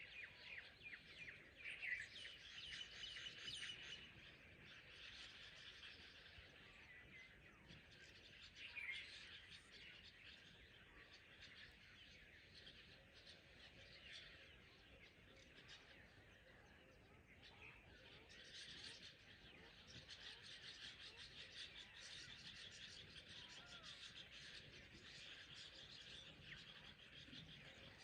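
Faint dawn chorus: many birds chirping and calling at once, short overlapping notes that thicken near the start and again in the second half.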